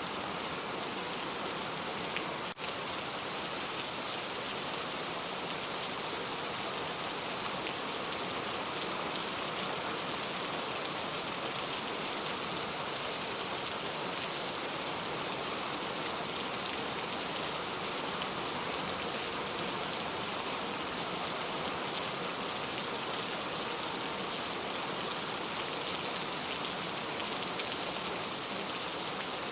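Steady rain, an even hiss of falling drops, with a momentary dip about two and a half seconds in.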